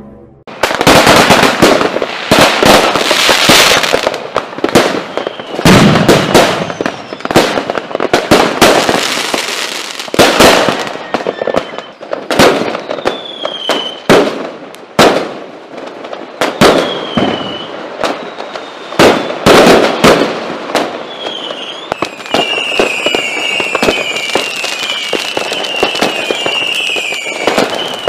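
Fireworks and rojão skyrockets going off: a dense string of loud sharp bangs and crackles, with short whistles from rockets. In the last few seconds the bangs ease into steadier crackling under a quick run of repeated whistles.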